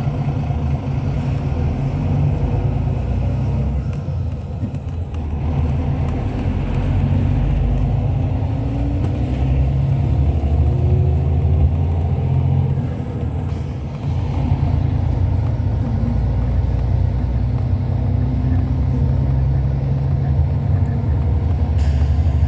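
Hyundai Universe Space Luxury coach under way, heard from inside the cabin: a steady low drone of engine and road noise, with the level dipping briefly about two-thirds of the way through.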